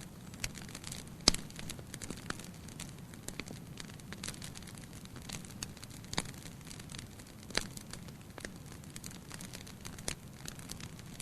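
Wood fire burning in a fireplace: a steady low rush of flames with constant crackling and several sharper, louder pops.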